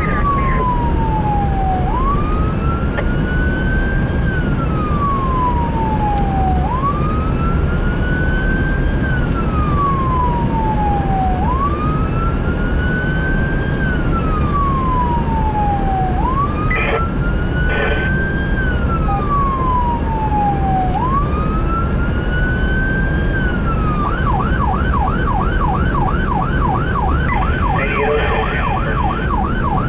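An emergency vehicle's electronic siren on a slow wail, rising and falling about every five seconds, with two short horn blasts near the middle. Late on it switches to a fast yelp, about four sweeps a second, over a steady low vehicle rumble.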